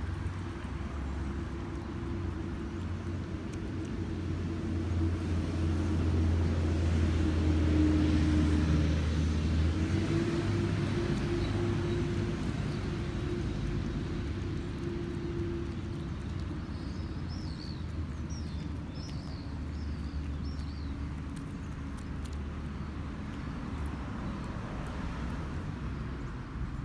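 Steady low engine hum of motor traffic, growing louder around eight seconds in and then easing off. A few short high chirps come in the middle.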